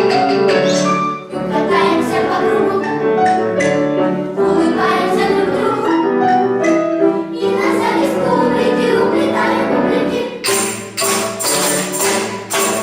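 Lively ensemble music with a percussion part: many quick pitched notes throughout, and from about two-thirds in a run of bright, sharp percussion strikes, roughly two to three a second.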